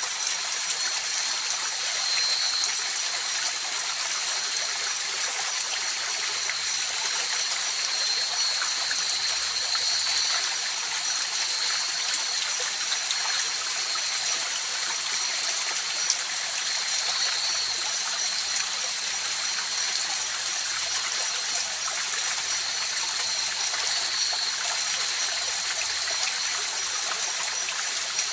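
River water flowing steadily over rocks, an even rushing with small gurgles, with two thin, steady high-pitched tones running over it.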